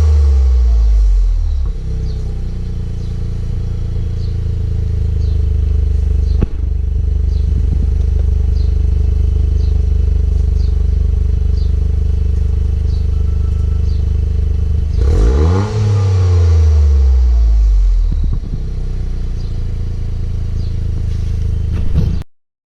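Toyota GR Yaris three-cylinder engine idling through an aftermarket sport exhaust. A rev falls back to idle at the start, and about 15 seconds in there is one quick throttle blip that drops back to a steady idle. The sound cuts off shortly before the end.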